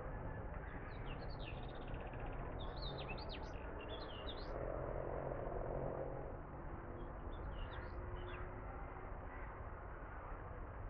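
Small birds chirping in quick rising and falling calls, one run of chirps over the first few seconds and another shorter one later, over a steady background hum.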